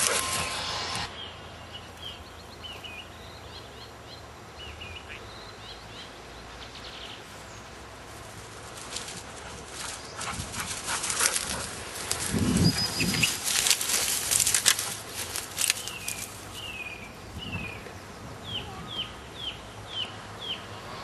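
Small birds chirping in short falling notes, a run of about six evenly spaced chirps near the end, with a louder spell of rustling, crackling noise in the middle.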